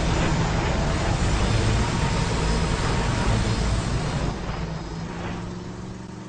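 A road vehicle passing with a heavy rumble that holds for about four seconds and then fades away.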